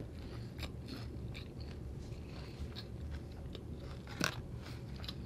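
Close-miked chewing of a mouthful of fried sesame chicken, with many small clicks and crunches. A louder click comes a little over four seconds in, as chopsticks dig into a paper takeout box of rice.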